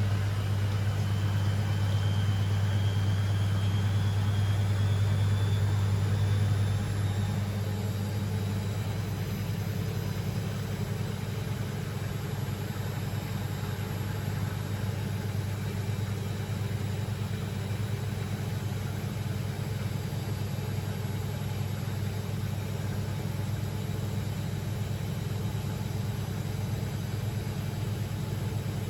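Beko WML 71433 NP washing machine running: a steady low motor hum with a faint high whine that rises in pitch over the first several seconds. The sound eases a little about seven seconds in, then holds steady.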